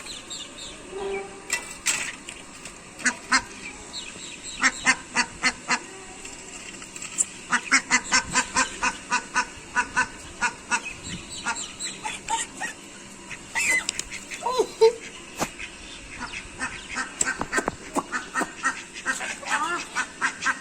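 Ducks quacking in quick runs of short, sharp calls, several at once, with brief lulls between the runs.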